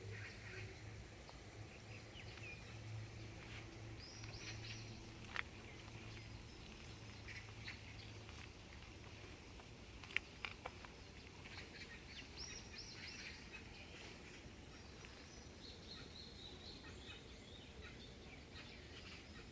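Faint birdsong: small birds chirping and trilling on and off. There are a few sharp clicks, one about five seconds in and three close together around ten seconds. A low hum underneath dies away about seven seconds in.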